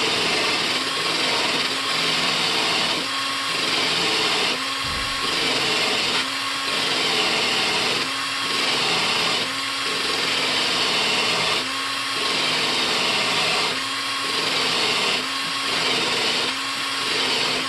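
Electric drill running under load, cleaning the threads of an old gas pipe fitting. The motor's pitch and loudness dip and recover about every second and a half as the tool bears on the threads.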